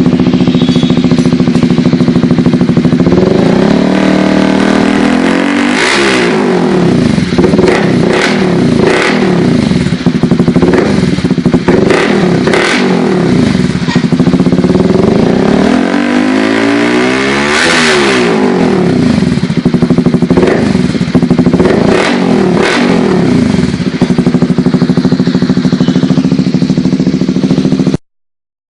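Honda CBR150R (K45G) single-cylinder engine running through an aftermarket slip-on muffler (KeySpeed M4 Burnlight): idling, then revved in quick throttle blips and two longer climbs in pitch, about five seconds in and again around eighteen seconds, before settling back to idle. The sound cuts off suddenly near the end.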